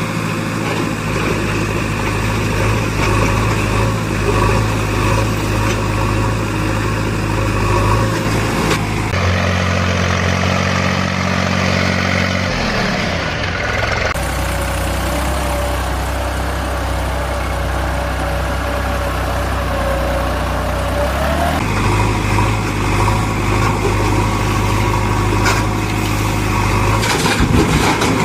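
Diesel engines of an excavator and farm tractors running steadily, the engine note changing abruptly several times as one machine's sound gives way to another's.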